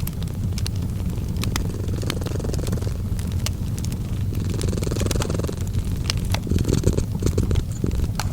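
Cat purring in a steady low rumble, layered with fireplace crackle: scattered sharp pops and snaps from burning wood.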